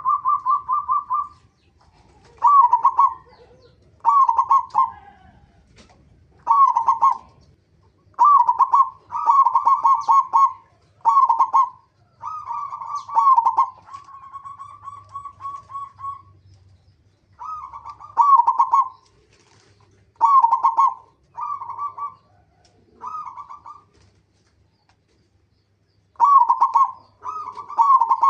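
Zebra dove (perkutut) cooing: short, rapid, stuttering coo phrases repeated every second or two with brief pauses, and one longer drawn-out phrase about halfway through.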